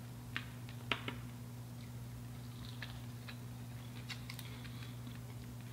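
Close-up eating sounds: a few scattered crisp clicks and smacks from fried seafood being chewed, over a steady low electrical hum.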